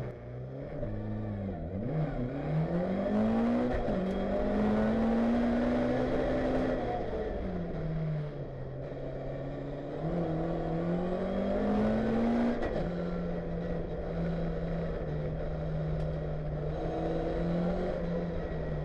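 Mk1 Ford Escort racing saloon's engine heard from inside the cabin, driven hard: the note climbs with the revs and drops sharply at each gear change, about two seconds in, at four seconds and again past twelve seconds, then holds steady near the end.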